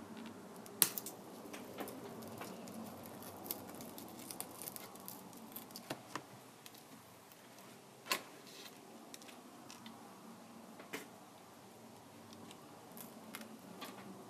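Small hand tools clicking and tapping against a Kindle Fire tablet's plastic and glass during disassembly: scattered light clicks, with sharper snaps about a second in and about eight seconds in.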